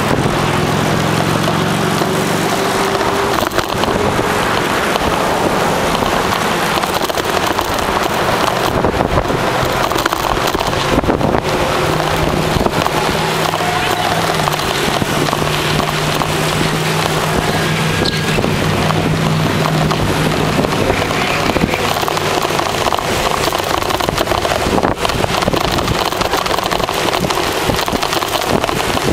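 Steady wind rushing over the microphone with road noise while riding a bicycle, and a faint low hum that comes and goes.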